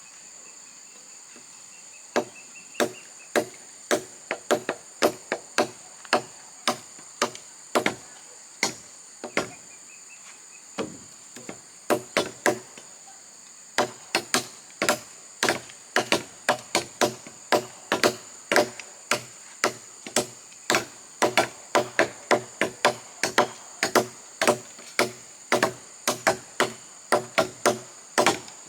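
Hand chopping of wood with a blade: sharp, repeated chopping strokes into a log. The strokes start about two seconds in, pause briefly, then come steadily at about two to three a second, over a constant high drone of insects.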